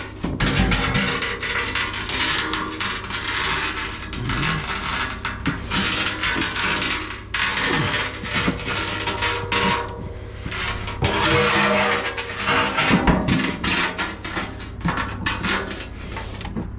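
Heavy cast iron bathtub being dragged and shifted, with repeated scraping and sharp knocks, over background music.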